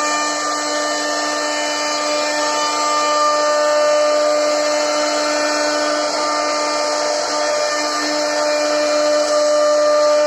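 CNC router spindle running with a steady whine while its bit carves into a wooden board, over a constant cutting hiss.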